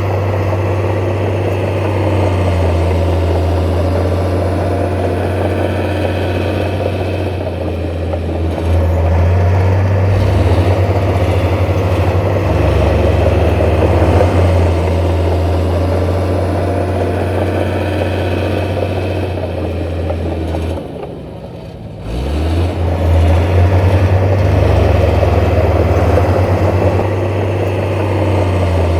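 Diesel engine of heavy earthmoving machinery running steadily, its pitch shifting in small steps, with a brief drop in level about three-quarters of the way through before it picks up again.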